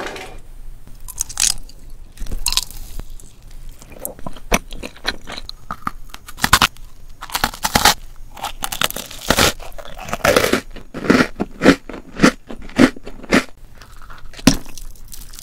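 Close-miked eating sounds. A soft chocolate treat made from a Choco Pie is bitten and chewed. Then an Oreo cookie is bitten and chewed, with sharp crunches coming several times a second.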